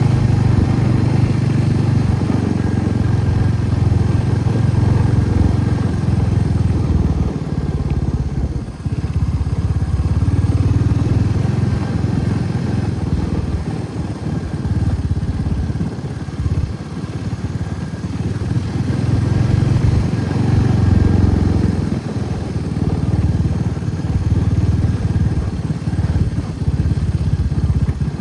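Motorcycle running at riding speed, a steady low rumble that swells and dips every few seconds.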